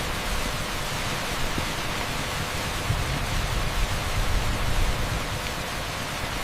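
Torrential rain on a street, heard as a dense, steady hiss like pink noise, with a fluttering low rumble beneath it.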